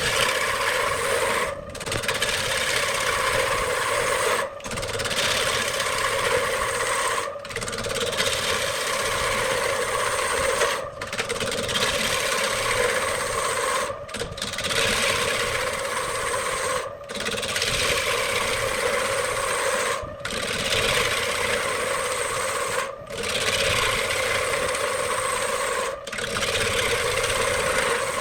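Wood lathe running with a turning tool scraping and cutting the spinning wood, a steady rasping hum that drops out briefly about every three seconds.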